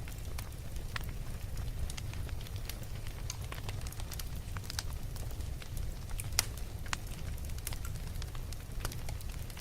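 Fire burning in a fireplace, crackling with scattered pops over a steady low rumble; one louder pop comes about two-thirds of the way through.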